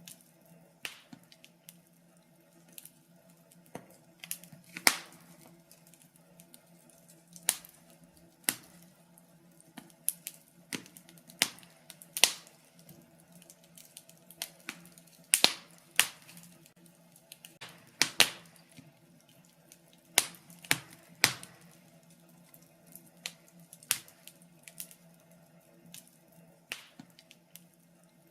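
Wood fire in a fireplace crackling, with sharp pops at uneven intervals, roughly one a second.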